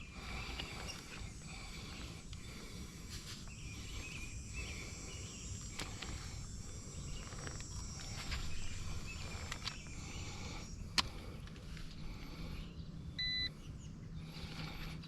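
Quiet outdoor background with a sharp click, then a single short electronic beep near the end: a digital fish scale switching on and zeroing before a weigh-in.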